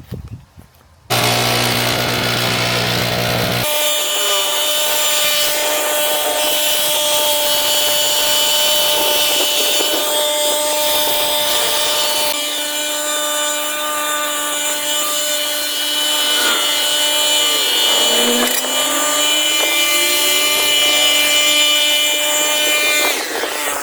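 A power tool running steadily at high speed, starting about a second in, with its tone shifting abruptly a few times.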